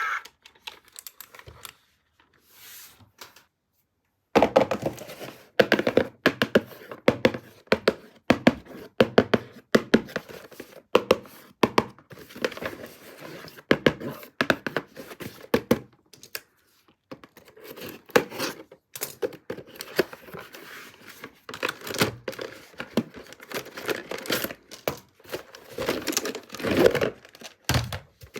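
Hands unboxing a toy: a dense, irregular run of knocks and taps on plastic and cardboard, with tearing and crinkling of packaging. It starts about four seconds in, after a mostly quiet opening.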